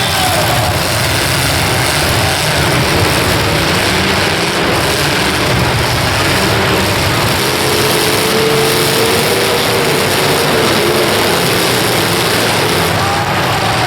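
Demolition derby cars' engines running together, a loud, steady, dense din, with one engine note wavering up and down about eight to eleven seconds in.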